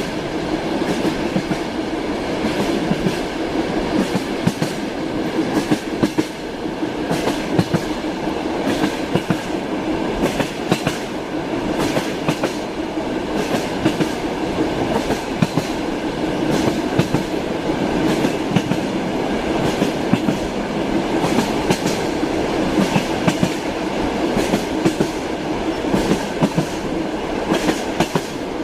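Train wheels knocking over rail joints, a clickety-clack of sharp knocks over the steady rumble of a moving train.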